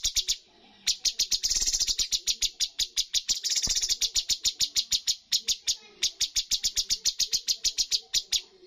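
Cucak cungkok songbird giving its fast "tembakan" call, a rapid run of sharp, high chipping notes at about nine a second. It breaks off briefly three times and starts again.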